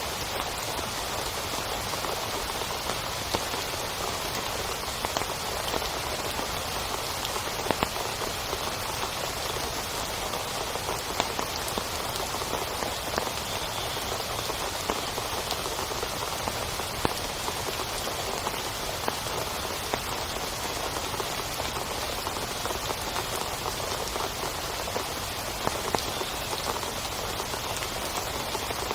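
Heavy rain falling steadily on a tent: a dense, even hiss with many scattered louder drop hits.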